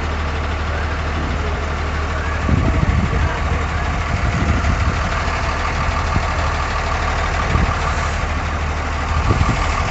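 Truck engine idling steadily, with an uneven heavier rumble coming in about two and a half seconds in.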